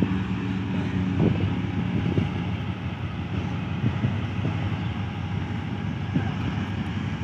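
Passenger train pulling out slowly behind a GE U40 diesel-electric locomotive: a steady engine drone and rolling rumble with a few short knocks.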